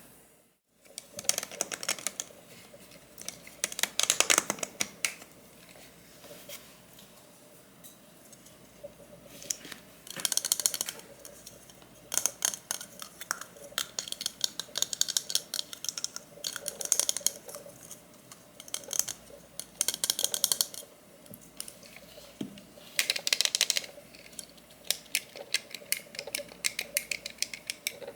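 Bursts of rapid light clicking and scratching from small hard objects handled close to the microphone, recurring every couple of seconds.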